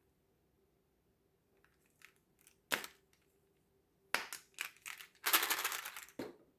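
Crackling and crushing sounds. A single sharp crack comes a little under three seconds in, then a run of crackles, and about a second of continuous crinkling near the end.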